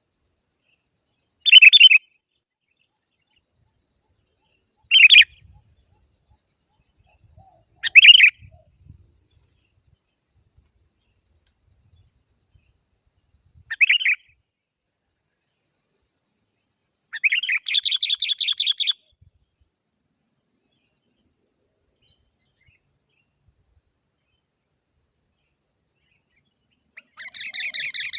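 Sooty-headed bulbul (kutilang) calling in a lively rival-challenge song: four short calls a few seconds apart, then a longer rapid chattering phrase about 17 seconds in and another starting near the end.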